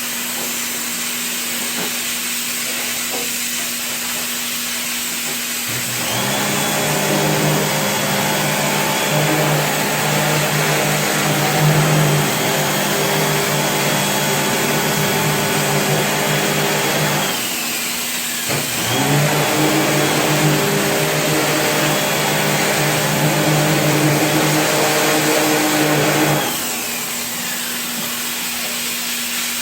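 Electric pressure-washer pump for air-conditioner cleaning starting up and running with a steady hum and high whine, stopping briefly with a falling whine, then running again, over a constant hiss of spraying water.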